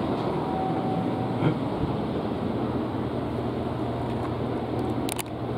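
Steady low hum and rumble inside a 1970 Tokyu Car–built commuter train car, with a short double click near the end.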